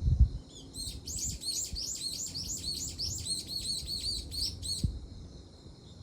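A small bird singing a rapid run of repeated high, falling chirps, about five a second, for about four seconds, over a steady thin high tone. A low thump comes right at the start.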